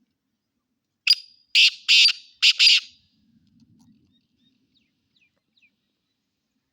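Black francolin (black partridge) calling: one loud phrase of five short notes about a second in, a brief first note followed by four stronger ones, lasting about two seconds.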